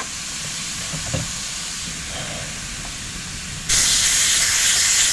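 Steady hiss of pressurised gas, which jumps suddenly louder and sharper about three and a half seconds in.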